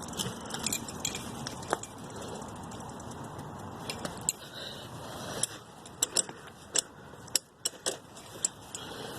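Bicycle ridden off the pavement: a steady rolling noise with light metallic clinks and jingles, coming more often in the second half.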